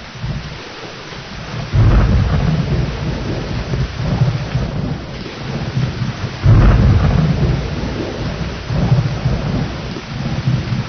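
Thunderstorm: steady rain with rolling thunder. Two loud thunder peaks hit, about two seconds in and again about six and a half seconds in, each trailing off into a deep rumble.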